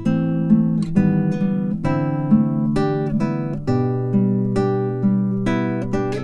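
Background music: an acoustic guitar playing plucked chords, with notes struck about every half second to a second, each ringing and fading before the next.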